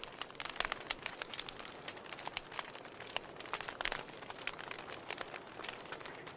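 Wood fire in a fireplace crackling, with many irregular sharp pops and snaps over a soft hiss.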